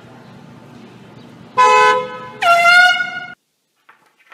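Vehicle horn blown twice in quick succession, two loud honks of under a second each, the second dipping slightly in pitch as it starts, over a low steady street hum. The sound cuts off abruptly right after the second honk.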